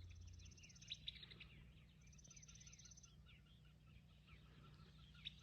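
Faint chirping of small birds: many short calls, with a high rapid trill near the start and again about two seconds in.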